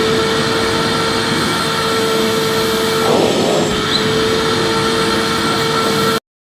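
Vacuum cleaner motor running steadily, a whooshing rush with a steady whine over it, then cutting off suddenly near the end into silence.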